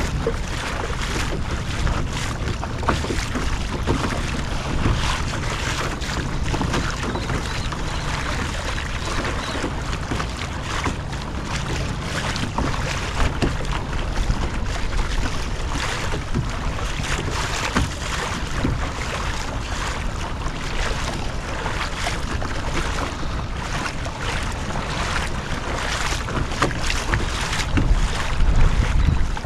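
A kayak moving on open sea water, with water splashing and lapping against the hull, and wind buffeting the microphone as a steady low rumble.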